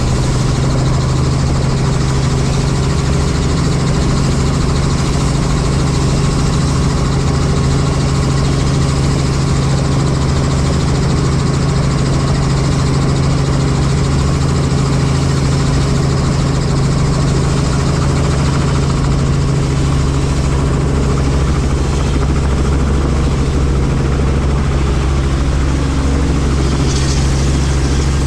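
Helicopter in flight: a loud, steady drone of rotor and engine with a strong low hum.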